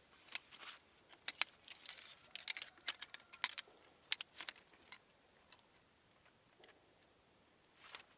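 Light clicks, taps and rustling of small objects being handled, busy for about the first five seconds, then mostly quiet apart from a soft rustle near the end.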